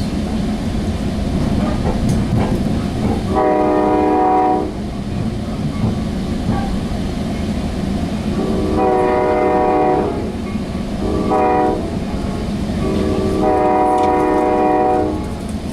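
Sounder commuter train's multi-tone horn sounding long, long, short, long, the standard warning for a grade crossing ahead, over the steady rumble of the rail car underway.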